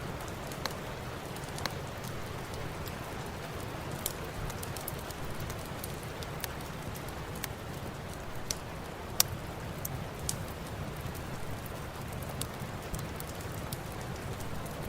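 Steady rain with the scattered sharp pops of a crackling wood fire, about one every second or two, the loudest about nine seconds in.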